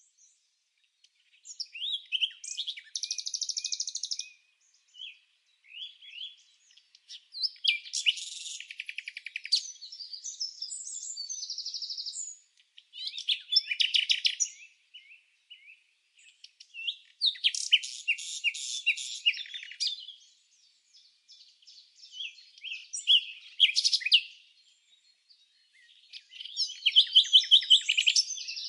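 Songbird song: separate phrases of high chirps and rapid trills, about eight of them, each lasting one to a few seconds, with quiet gaps between.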